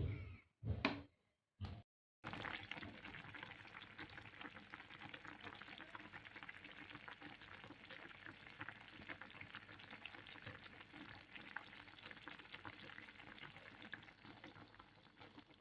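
Food cooking in a hot pan, with a steady crackling sizzle and bubble that starts about two seconds in, after a few short knocks of handling.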